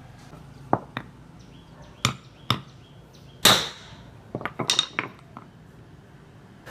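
Hand tools and metal parts knocking and clicking in a workshop: about a dozen separate sharp taps, the loudest about halfway through with a short ring, and a quick run of taps soon after.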